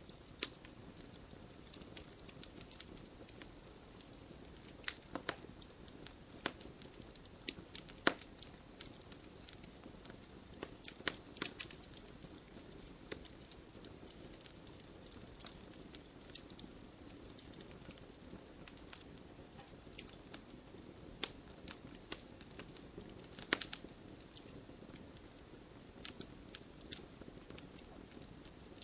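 Wood fire burning in a fireplace: a steady low hiss with irregular sharp crackles and pops, a few louder pops scattered through.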